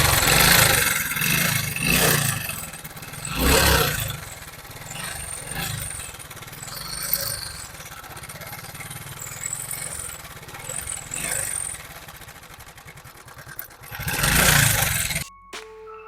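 Motorcycle engine idling with a low pulsing beat, blipped on the throttle into short revs near the start, about two and three and a half seconds in, and one longer rev near the end. The engine sound cuts off about fifteen seconds in.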